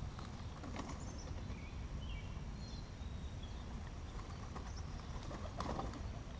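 Outdoor ambience: a steady low rumble with birds chirping in short high notes, and two brief rustling strokes, one about a second in and one near the end.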